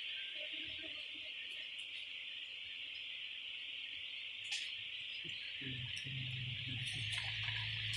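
A steady, high-pitched chirring chorus of night insects. About six seconds in, a low steady hum joins it.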